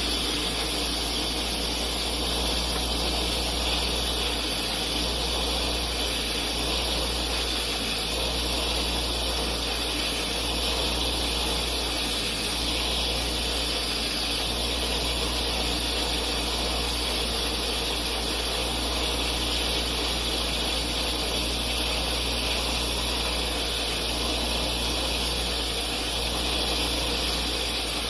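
Bench grinder running steadily with a buffing wheel, buffing a plastic lamp lens: a constant motor hum with a hiss from the wheel on the plastic.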